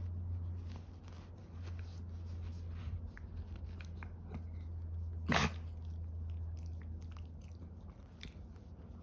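Senior dog making small clicking mouth and chewing noises, with one brief, louder dog sound about halfway through, over a steady low hum.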